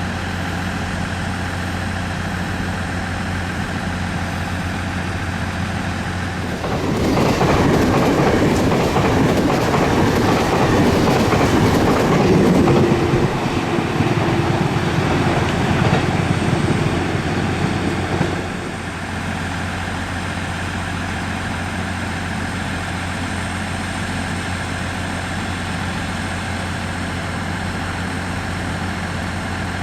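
A train runs through the station for about eleven seconds, its wheels clattering over the rail joints, then the noise drops away abruptly. Under it a steady low engine hum carries on throughout.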